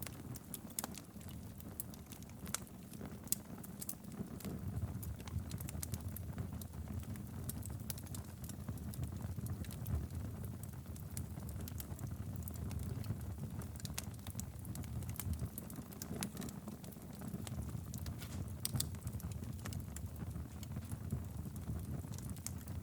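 Wood fire burning steadily in a fireplace: a low rumble of flames with frequent irregular crackles and pops.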